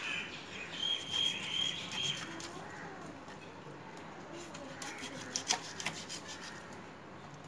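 A bird calls with a thin, high whistle in three short pieces in the first two seconds. A few sharp clicks and scrapes come after the middle as a knife works through a fish.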